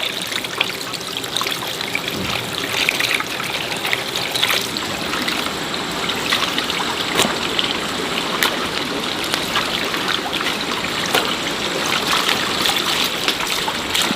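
Running water trickling and splashing steadily, with many small irregular splashes.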